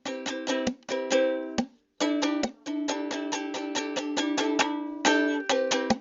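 Solo ukulele strumming chords in a steady rhythm, stopping briefly about two seconds in, then playing a stretch of rapid continuous strumming before going back to separate strokes.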